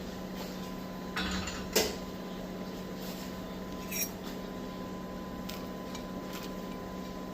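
Crockery and cutlery being handled: a short scrape, then a sharp knock, and about two seconds later a ringing clink, over a steady low hum.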